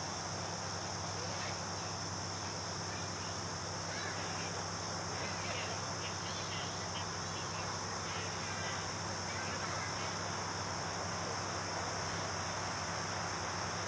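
Outdoor chorus of insects singing, a steady high-pitched drone with faint rapid ticking above it.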